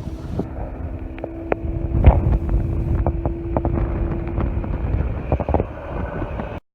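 Class 158 diesel multiple unit passing over a level crossing: a low rumble and a steady hum, with wheels clicking sharply and irregularly over rail joints. The sound cuts off abruptly near the end.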